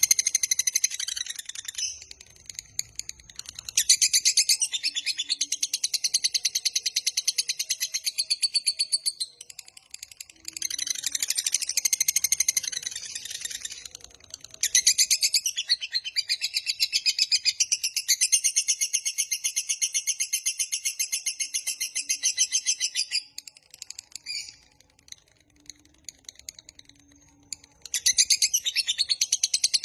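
Lovebird singing its long, rapid, high-pitched chattering song ('ngekek panjang'). It comes in several long bouts of a few seconds to about eight seconds each, with short pauses between.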